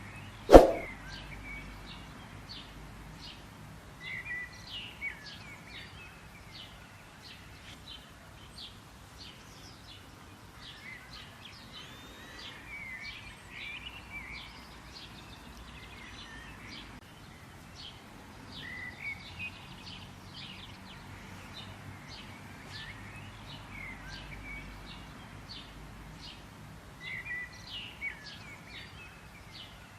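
Birds chirping and twittering, with short warbling phrases coming every few seconds over a steady background hiss. A single sharp click about half a second in is the loudest sound.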